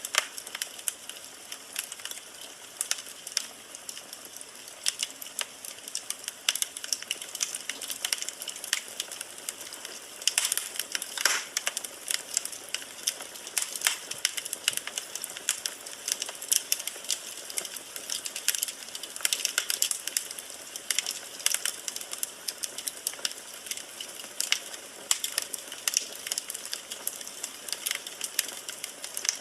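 Firewood burning in a fireplace, crackling with dense, irregular snaps and pops over a soft hiss.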